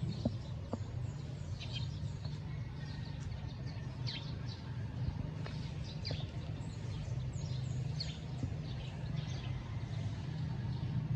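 Birds chirping repeatedly in short, high, falling calls over a steady low hum.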